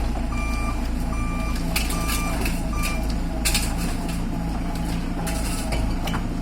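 A heavy machine's reversing alarm beeping four times, about once every 0.8 s, then stopping about three seconds in, over the steady rumble of a diesel engine. A couple of sharp knocks come in the middle.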